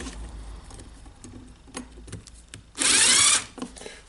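Light clicks of metal and plastic parts being handled, then a loud burst of about half a second from a small power tool running, about three seconds in, while screws go into the grinder's gear housing.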